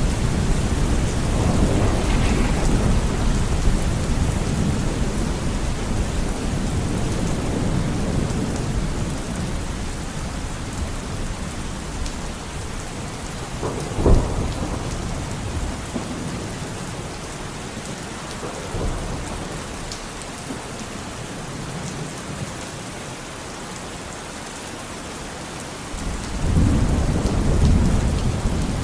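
Steady rain with rolling thunder. A deep rumble slowly fades over the first several seconds, a single sharp crack comes about halfway through, and then a fresh rumble of thunder rolls in near the end.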